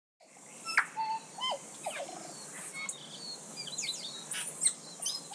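Several birds chirping and whistling: a busy run of short chirps and quick sliding whistles over a faint hiss, starting suddenly just after the start, with a sharp call standing out about a second in.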